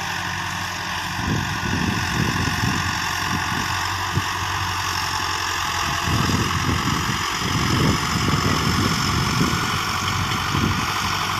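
Massey Ferguson 385 tractor's diesel engine running steadily, with an uneven low rumble mixed in from about a second in.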